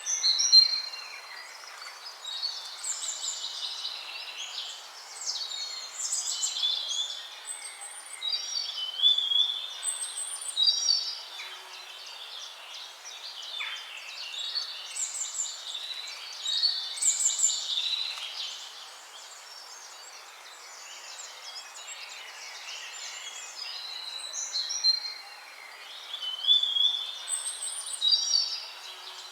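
Songbirds singing: short phrases of chirps, trills and warbles that come every second or two, over a steady background hiss.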